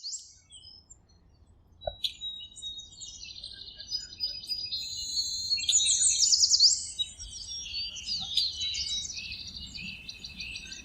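Several birds chirping and trilling in quick, high-pitched repeated notes, the chorus starting about two seconds in and growing fuller.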